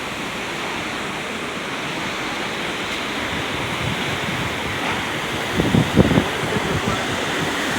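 Steady rushing of hurricane wind and rain, with a few louder low thumps about five and a half to six seconds in.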